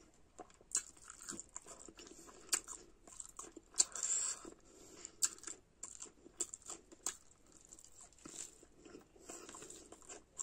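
Close-miked chewing of a mouthful of rice and fried egg, with many short wet lip smacks and mouth clicks, a denser smacking patch about four seconds in.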